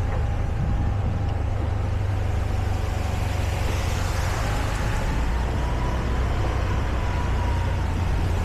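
Motorbike engine running steadily while riding, a constant low hum with a faint thin whine that drifts slightly in pitch, under a steady rushing road noise.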